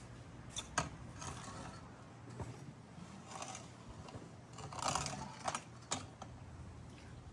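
A few sharp mechanical clicks and short scraping, rattling bursts of handled equipment, the loudest about five seconds in, over a steady low hum.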